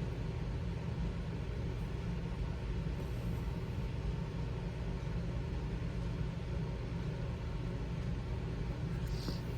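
Steady low rumble of background room noise, with a brief faint high-pitched sound near the end.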